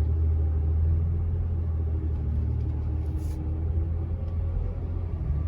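Heavy, steady low vehicle rumble that starts suddenly and holds, with a faint hum above it.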